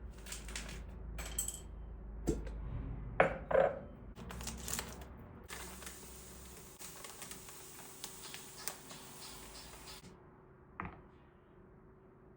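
Household objects being handled: a run of small clinks and knocks, then a steady hiss for about four and a half seconds that cuts off suddenly, followed by one more knock.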